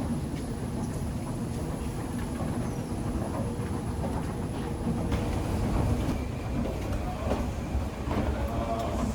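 Subway train running through the station, a steady low rumble with a faint whine over it and a few light clicks.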